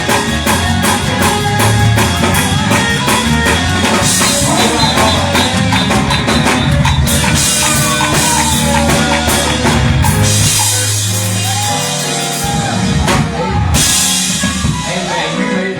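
Live church band music driven by a busy drum kit with rapid cymbal strikes over sustained instrument notes, played without words as praise music.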